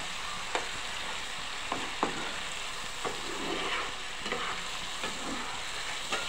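Achari chicken curry bubbling and sizzling in a pan as a spatula stirs it, with a steady hiss and several sharp clicks of the spatula against the pan. The curry is cooked down at the end of cooking.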